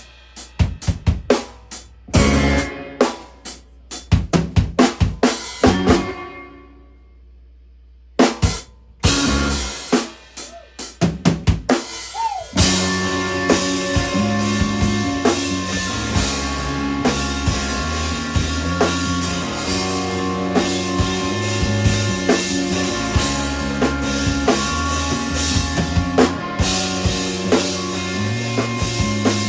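A live instrumental hardcore/Midwest emo band playing. The drum kit hits in stop-start accents, with a gap of about two seconds in which the ringing dies away, and the full band comes in about twelve seconds in and plays on steadily.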